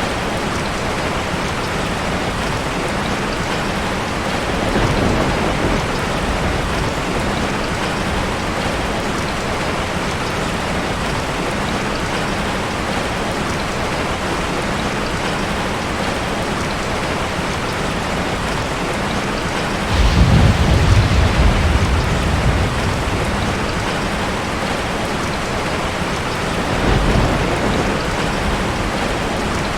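Heavy rain pouring steadily, with thunder: a sudden loud, low rumble about two-thirds of the way in that fades over a few seconds, a shorter rumble near the end, and a faint one early on.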